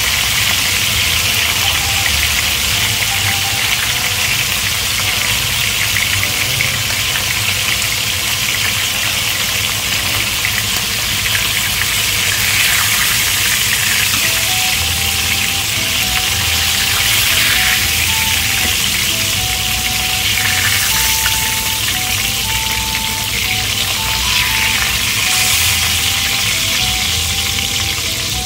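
Chicken thighs searing in hot oil in an enamelled pan, a steady sizzle, with a quiet melody of short music notes laid over it from a couple of seconds in.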